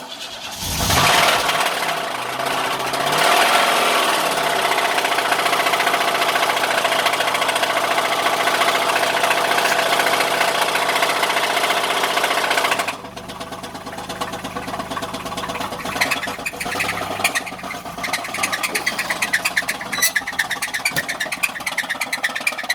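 1986 Buick LeSabre's 3.8-litre V6 starting and running fast, then dropping to a lower speed about halfway through, where a regular knocking stands out. The knock is the sign of a spun bearing.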